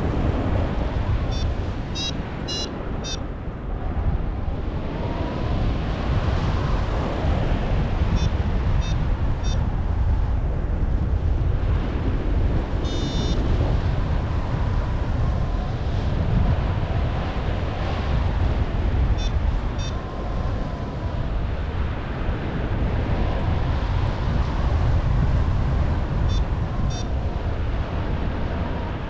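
Strong wind buffeting the camera microphone in flight, a steady low rush. Several short runs of high beeps from a paragliding variometer cut through it at intervals, the beeping that signals the glider is climbing in lift.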